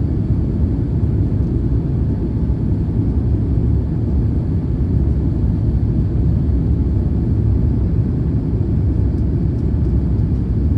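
Steady low rumble of an Airbus A350-1000 cabin in flight: engine and airflow noise with no change in level.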